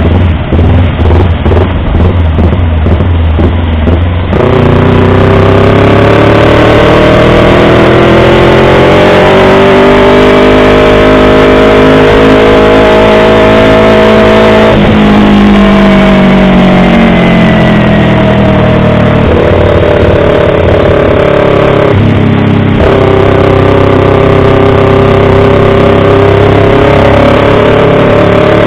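Yamaha R25's 250 cc parallel-twin engine, loud and close. It runs choppy and uneven for about four seconds, then pulls steadily with its pitch slowly rising. The pitch drops suddenly about fifteen seconds in, as at a gear change, then climbs again with more shifts near the end.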